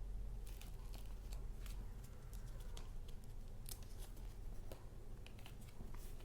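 Paper and paper goods being handled: a run of light, crisp, irregular clicks and rustles over a low steady hum.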